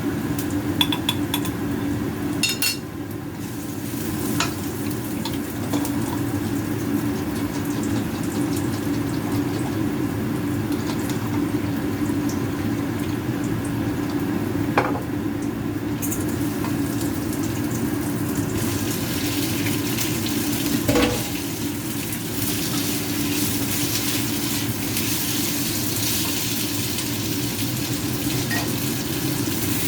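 Food sizzling in a frying pan, with a few metal utensil clinks against the pan while it is stirred; the sizzle grows louder about two-thirds of the way through, over a steady low hum.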